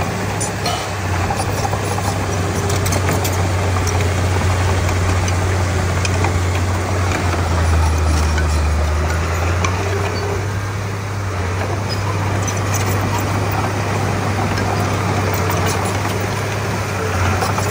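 Komatsu D31P bulldozer's diesel engine running steadily under work, with a heavier, deeper rumble for about two seconds midway as it takes more load.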